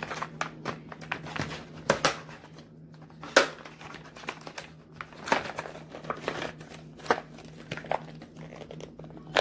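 Stiff plastic packaging being crinkled and pulled at by hand, giving irregular crackles and clicks, over a faint steady hum.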